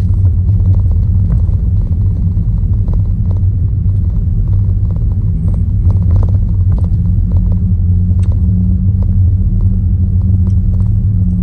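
Steady low rumble of a car engine idling, heard from inside the cabin, with many small clicks and crunches of close-up chewing and handling food.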